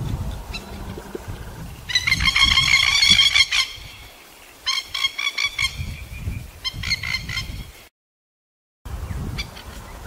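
A bird calling in three runs of rapid, harsh, chattering notes, the first and longest about two seconds in. The sound drops out completely for about a second near the end.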